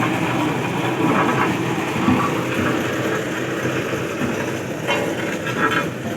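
Road roller engine running steadily under load, with a rough rattling clatter.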